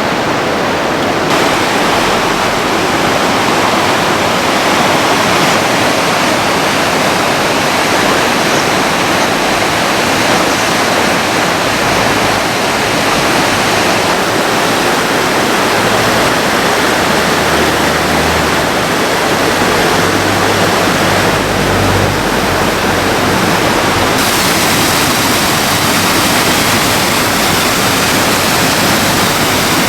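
Loud, steady rushing of fast-flowing water from a storm-swollen stream, its tone shifting abruptly a few times as the footage cuts between spots.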